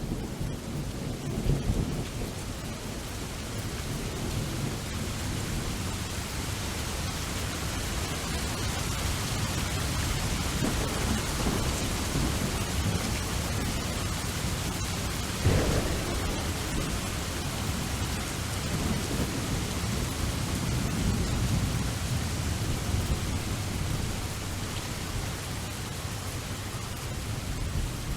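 Steady rain with rolling thunder rumbling low. A sharp thunderclap comes about halfway through.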